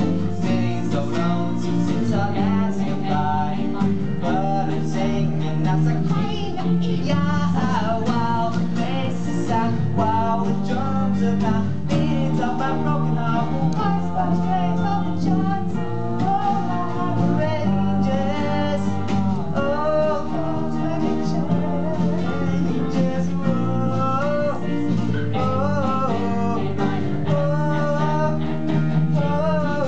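A song sung by voices over strummed guitar and band accompaniment, in a 1950s doo-wop ballad style.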